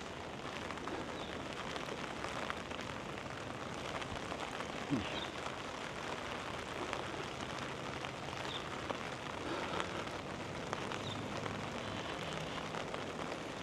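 Steady monsoon rain falling, an even hiss with scattered drop taps. A brief low falling tone sounds about five seconds in.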